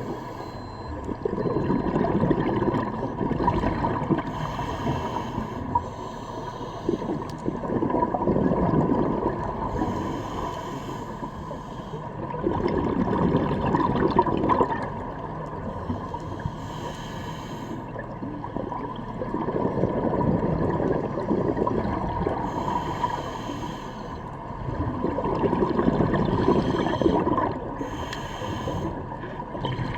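Scuba diver breathing through a regulator underwater: a short hiss on each inhale and a louder gush of exhaled bubbles about every six seconds, five breaths in all.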